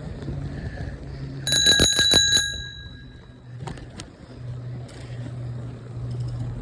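Bicycle bell rung rapidly five or six times about a second and a half in, its ring fading out over the next second, followed by two light clicks.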